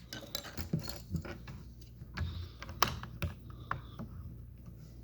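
Small plastic Lego pieces clicking and rattling as they are handled and fitted together: a run of irregular sharp clicks, with a few louder snaps near the middle.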